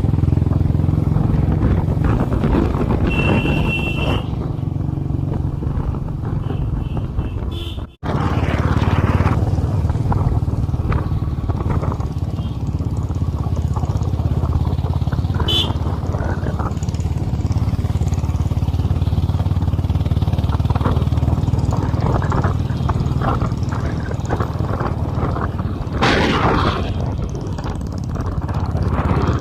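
Motorcycle engine running steadily under way, a low even hum, cutting out for an instant about eight seconds in.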